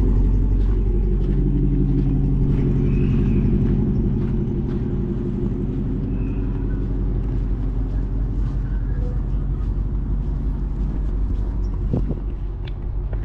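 Car engine running at a steady speed, a low even rumble that eases off slightly after a few seconds.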